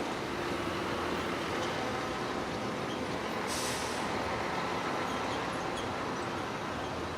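Heavy diesel earthmoving machinery running steadily, with a short burst of air hiss about three and a half seconds in.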